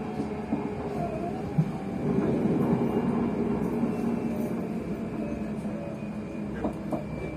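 Electric train's traction motors whining under the floor, with wheel-on-rail running noise, heard inside the passenger saloon. The motor tones waver as the wheels slip, and the sound swells about two seconds in before easing off.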